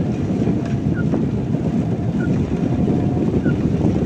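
Steady cabin noise of a car driving in the rain: engine and tyres on the wet road with rain, making a low, even rumble. A faint short high blip repeats about every second and a quarter.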